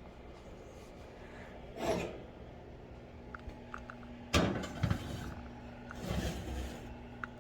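Cookware and utensils being handled in a kitchen: a soft scrape about two seconds in, a sharp knock about halfway through and another scrape near the end, over a steady low hum.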